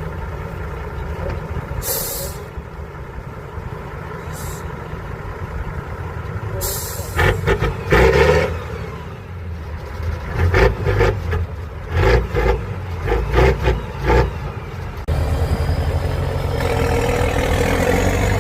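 Heavy trial truck's diesel engine running low and steady, with short hisses of air-brake release, then a run of heavy knocks and bangs about halfway through. Near the end the engine sound changes to a louder drone with a slowly rising whine.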